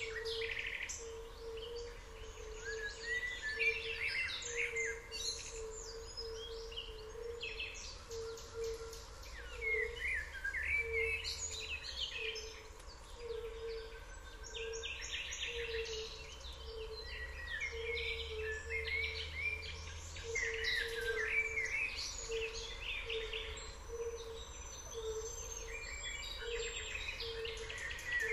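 Several small birds singing and chirping in overlapping trills. Under them a low tone pulses about once a second, with a faint low rumble.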